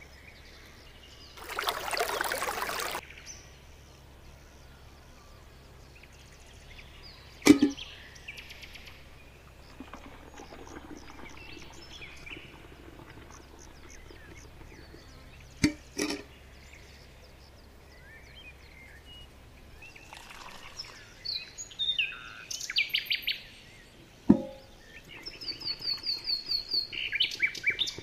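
Small birds chirping and trilling, mostly in the second half, with fast repeated chirps near the end. Three sharp clicks come several seconds apart, and there is a short hiss about two seconds in.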